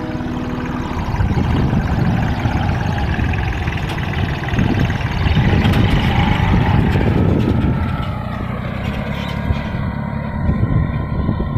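Farmtrac Atom 26 mini tractor's diesel engine running steadily.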